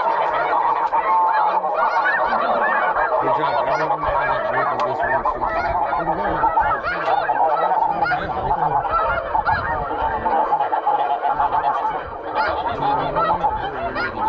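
A large flock of geese calling steadily: many overlapping honks and yelps blending into a continuous clamour.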